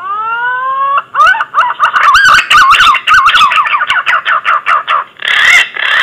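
Green pigeon (punai) call played as a hunting lure: a rising whistle for about a second, then a rapid run of wavering, warbling whistled notes, ending with a harsher, rasping burst near the end.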